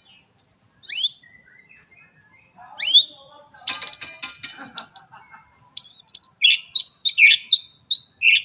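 White-rumped shama (murai batu) singing: a couple of rising whistles, a short harsh rattle, then from about six seconds a fast run of loud whistled notes, the rapid volley that shama keepers call 'tembakan'.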